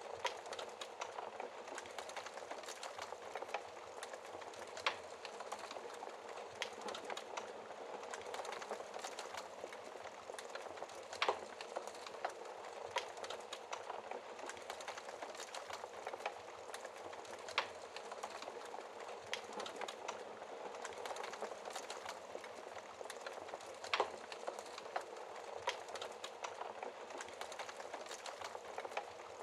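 Wood fire burning in a fireplace: a steady crackle with irregular sharp pops, the loudest about eleven seconds in and again about twenty-four seconds in.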